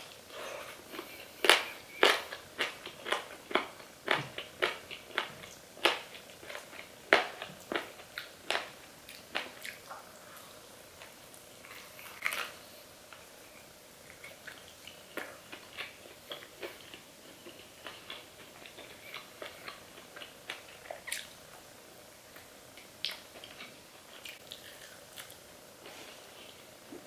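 Biting and chewing crispy fried chicken wings: loud crunches come about twice a second for the first ten seconds or so, then give way to quieter, sparser chewing.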